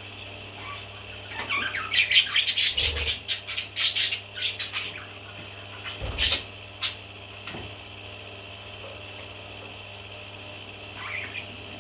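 Baby parrots calling: a quick run of short, harsh calls for about three seconds, then two single calls, then only a steady background hum until a faint call near the end.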